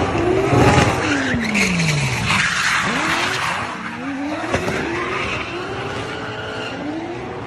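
Car engine revving hard, its pitch falling steeply early on, then climbing and dropping again several times as it accelerates. Tyres squeal and skid between about one and three seconds in.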